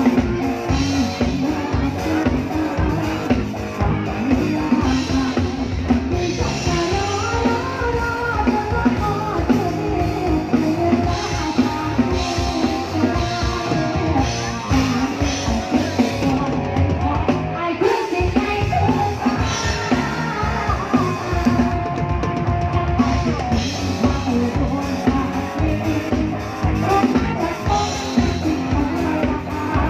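Live band music with drum kit and electric guitar, and a singer's voice over it at times.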